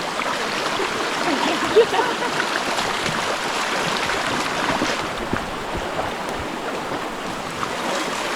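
Rainforest river water flowing and rushing over stones, a steady noisy wash, with one brief louder sound about two seconds in.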